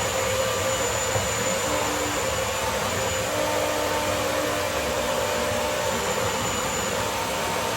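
Electric blender switched on and running steadily, blending carrot cake batter.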